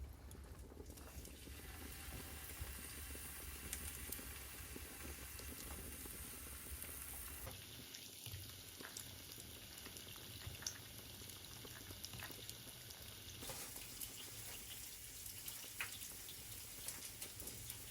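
Food sizzling in a pan: a steady hiss with scattered small pops and crackles.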